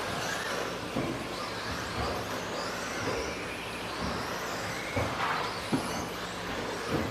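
Several 1/10-scale 2WD stadium trucks with 13.5-turn brushless electric motors racing: the motors whine, rising and falling in pitch as the trucks accelerate and brake, with a few sharp knocks along the way.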